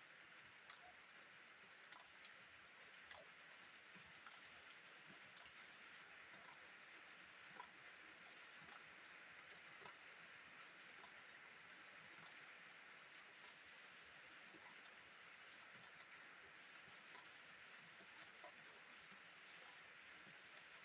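Steady, faint rain with scattered individual drops ticking.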